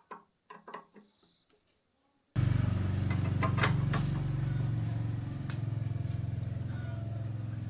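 A few short clicks, then about two seconds in a Honda GX200 single-cylinder four-stroke engine comes in abruptly, running steadily after its repair.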